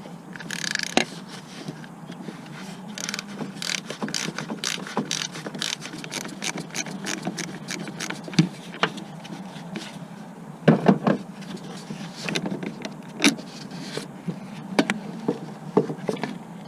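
Hand-tool work on a car: a long run of quick metallic clicks and clinks, with a louder cluster of knocks a little past the middle.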